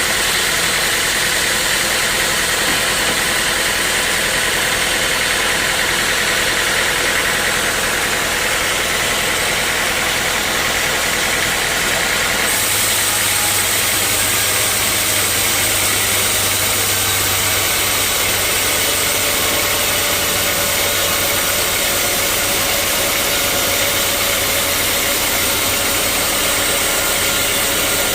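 Sawmill machinery running steadily. About twelve seconds in its sound changes: a higher-pitched band fades and a low hum comes up.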